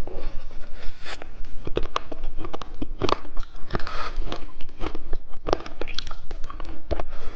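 Candy being bitten and chewed close to the microphone, with a run of irregular crunching clicks.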